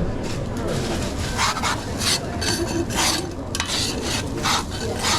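Metal kitchen utensils scraping and stirring against pans or serving trays in a series of short rasping strokes, about one every half second.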